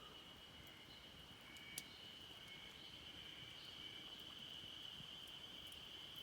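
Faint, steady high-pitched trill of insects, with one sharp click about two seconds in.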